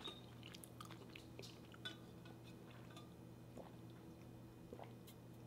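Near silence with faint, scattered mouth sounds: small clicks and soft chewing close to the microphone, over a low steady hum.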